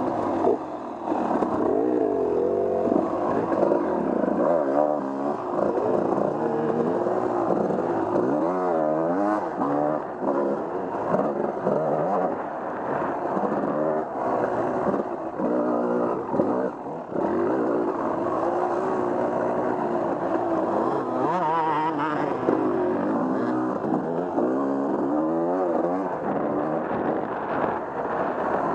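Off-road vehicle engine running under load, its pitch rising and falling repeatedly as the throttle is worked on and off.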